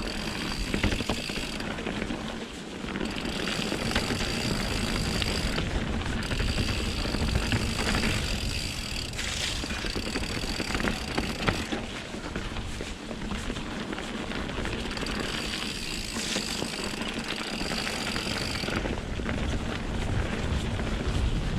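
Mountain bike on Pirelli Scorpion tyres rolling down wet dirt singletrack, with scattered clicks and rattles from the bike over the rough ground. A high-pitched buzz comes and goes in stretches of a few seconds.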